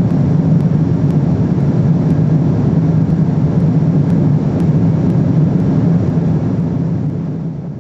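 Steady cabin noise of a Boeing 777-300ER in cruise: the rush of airflow and the low drone of its engines heard from inside the cabin. It fades out about six seconds in.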